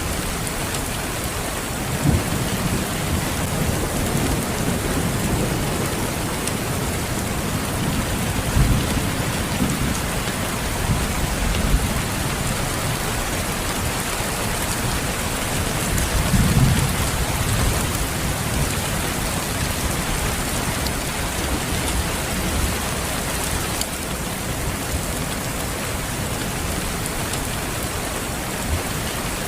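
Steady rain falling, with low rumbles of distant thunder rolling in a few times: about two seconds in, around nine seconds, and most strongly about sixteen seconds in.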